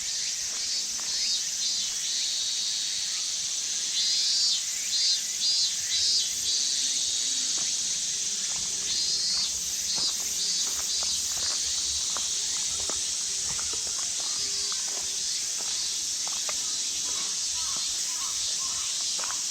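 A steady high-pitched chorus of insects, with bursts of quick, repeated chirping calls, over the light crunch of footsteps on a path.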